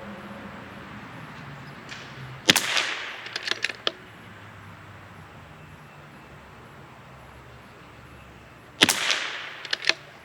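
Two shots from a CZ 457 MTR bolt-action .22 LR rifle firing Lapua Center X match ammunition, about six seconds apart. Each shot is followed within a second by a few quick clicks of the bolt being worked.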